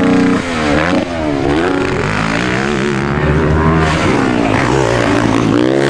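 Dirt bike engines revving, the pitch rising and falling again and again with the throttle.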